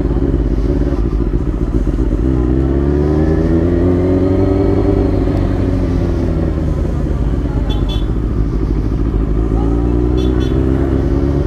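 Motorcycle engine running, its pitch climbing over a few seconds, easing back down, then climbing again near the end as the revs change.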